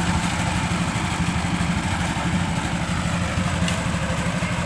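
An engine running steadily at idle, an even low hum with no change in speed.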